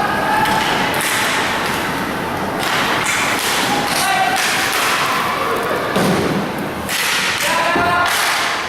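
Inline hockey play: repeated knocks and thuds of sticks, puck and boards over a steady noisy din, with short shouts from players now and then.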